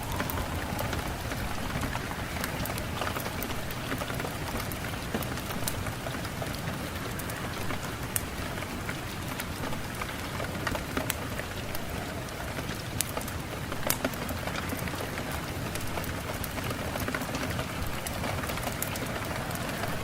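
Steady rain, with many separate drops ticking sharply on a hard surface over an even hiss; a few drops stand out louder, about eight and fourteen seconds in.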